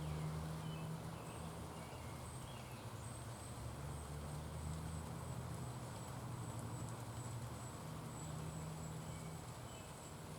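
Outdoor ambience: a steady low hum, a thin high steady tone that comes in about three seconds in, and a few faint short bird chirps near the start and again near the end.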